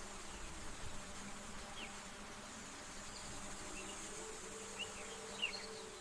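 Faint rainforest ambience: a steady high insect drone, with a few short bird chirps about two seconds in and twice near the end.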